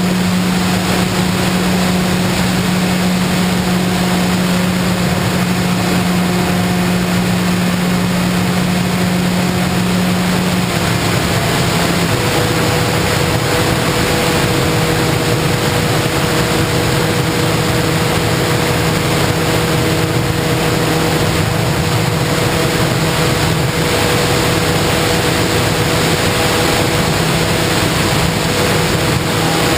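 A model aircraft's motor and propeller running steadily under a loud rush of wind. About twelve seconds in, the motor's tone shifts as the throttle changes.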